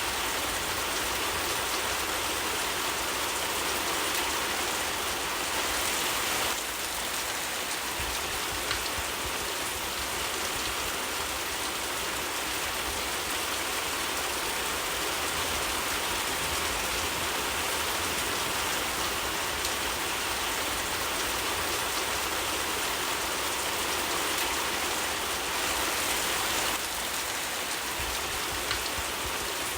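Steady rain falling, with a few faint fire crackles mixed in. The rain eases slightly about six seconds in and swells again near the end.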